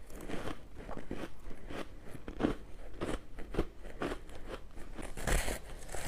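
Ice being crunched and chewed in the mouth: a run of irregular crisp crunches, with a louder bite about five seconds in.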